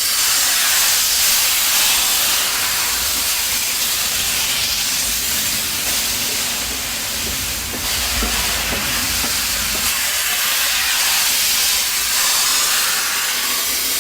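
Narrow-gauge steam locomotive venting steam in a loud, steady hiss that sets in suddenly and carries on unbroken.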